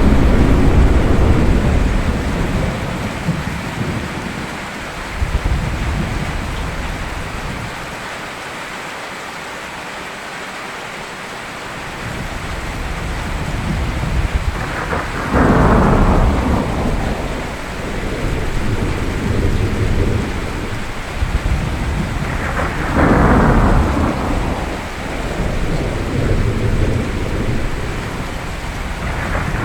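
Steady rain with thunder. A rumble dies away over the first few seconds, then sharp thunderclaps break in about halfway through, again about two-thirds through and once more near the end, each rolling off into rumble.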